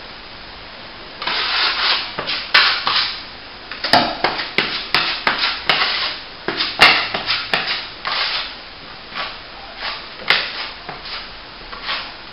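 Plasterer's trowel scraping wet plaster onto a repair in a run of short strokes, starting about a second in, with a few sharp clicks among them.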